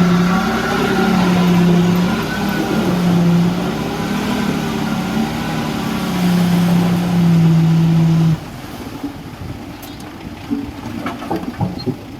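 Heavy diesel construction machine running under load, its engine pitch rising and falling. The engine sound cuts off suddenly about eight seconds in, leaving quieter background with a few short knocks.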